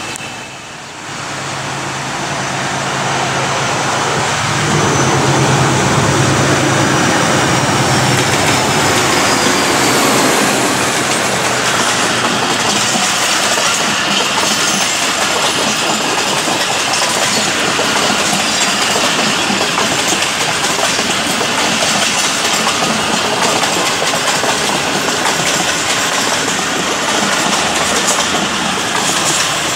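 Passenger express train passing close by behind a diesel locomotive. The locomotive's engine hum grows loud within the first few seconds. From about ten seconds in, a long string of coaches rolls past, wheels clattering over the rail joints.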